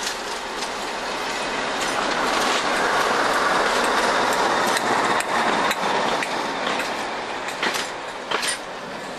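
Passenger coaches of a diesel-hauled train rolling past close by, with a steady rumble and rattle that swells and then eases. Sharp clicks run through it as the wheels cross the rail joints, some in close pairs near the end.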